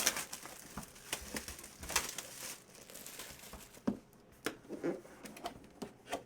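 Plastic wrapping crinkling and packaging tearing as a trading-card box is opened and handled, in irregular rustles and small clicks.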